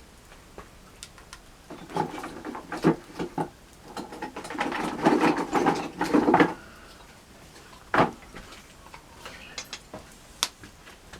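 Campfire wood clattering and cracking: a busy stretch of snapping and rustling sticks in the first half, then single sharp cracks.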